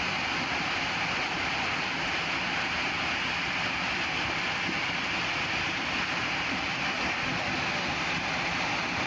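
Landslide in motion, a steady, unbroken rushing noise of sliding earth and water.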